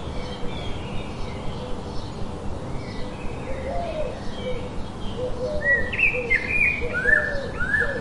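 Several birds chirping and singing together: many short high chirps and slurred whistled notes, with a lower call repeating underneath. The high song grows louder about six seconds in.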